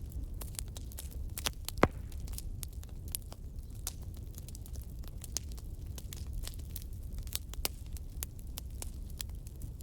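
Wood logs burning in a fireplace: irregular crackles and snaps over a steady low rumble of the flames, with one loud pop about two seconds in.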